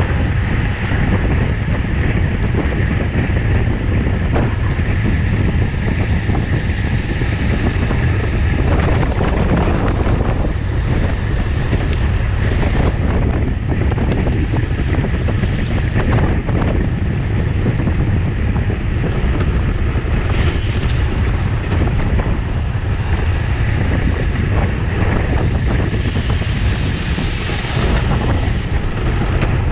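Wind rushing over the microphone of a camera carried on a racing bicycle at race speed: a loud, steady roar of air.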